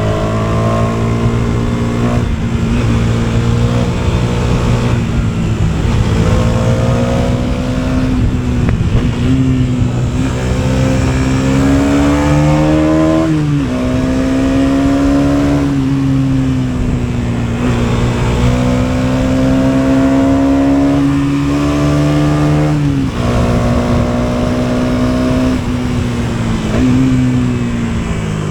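KTM Duke 250's single-cylinder engine running under way. Its pitch holds mostly steady, climbs slightly, and drops sharply a few times.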